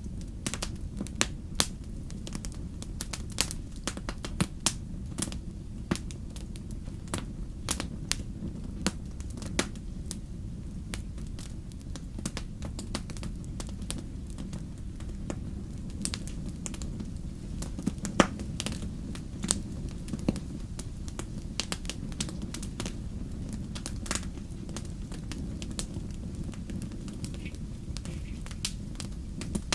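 Wood fire burning in a fireplace, crackling and popping irregularly over a steady low rumble, with one louder pop a little past the middle.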